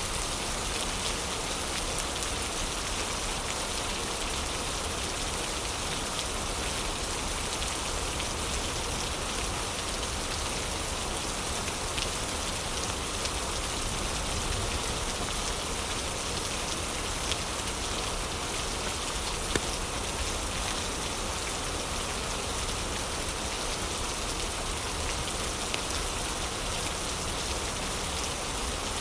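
Heavy rain falling in a steady hiss, with a few sharp pops from a crackling fireplace.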